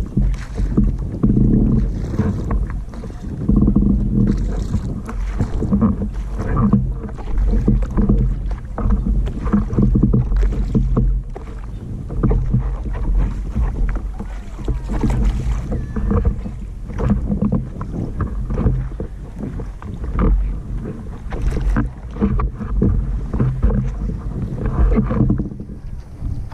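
A boat under way: a motor hums steadily, with water splashing against the hull and wind buffeting the microphone.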